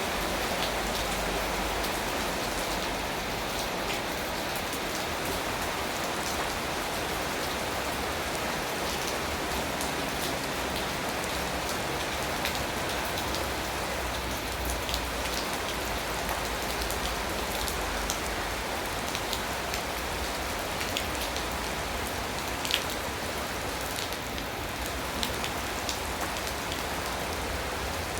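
Steady rain falling, with single drops tapping sharply close by now and then. One drop, about three quarters of the way through, is louder than the rest.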